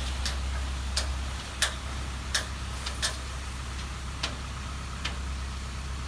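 Dump truck engine running steadily with a low hum, and sharp clicks or knocks at uneven intervals, about seven over the few seconds.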